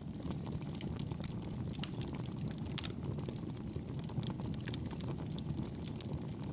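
Wood fire burning in a fireplace: a steady low rumble of flames with many small, irregular crackles and pops.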